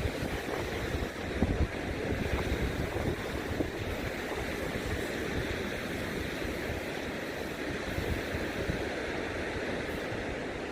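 Ocean surf washing steadily on the coast, mixed with cold gusty wind that buffets the microphone with a low rumble.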